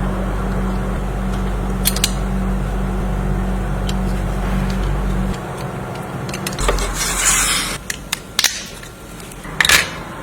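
A small electric motor hums steadily and cuts off about five seconds in, followed by a few clicks and two short hissing, scraping bursts from work on the model.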